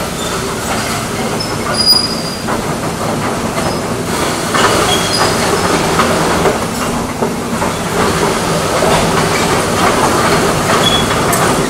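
Kobelco excavator running, a steady mechanical clatter over the engine drone, with a few short high-pitched metallic squeaks.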